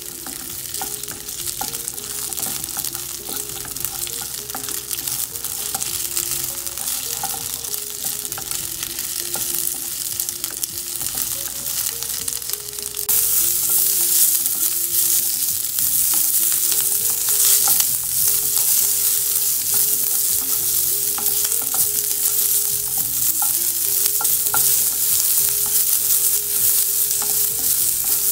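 Cut green chillies sizzling in hot oil in a nonstick frying pan, stirred and scraped with a wooden spatula while they fry. The sizzle gets louder about halfway through.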